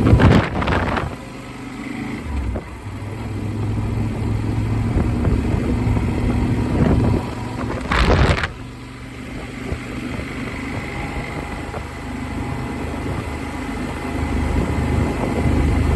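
Motorcycle engine running steadily on the move, heard through a helmet-mounted phone with wind rushing over the microphone. Two short loud rushes of noise, one right at the start and one about eight seconds in.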